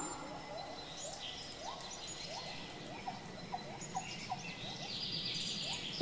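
A bird calling a run of short rising notes, about two to three a second, the notes growing shorter partway through, with high chirps of other birds above.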